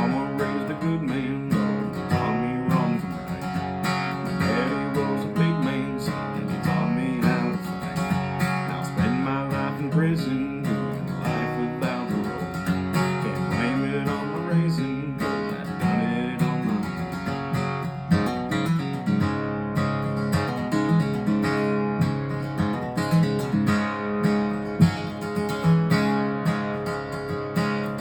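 Acoustic guitar playing an instrumental break: steady strummed chords under a melody line that slides up and down in pitch.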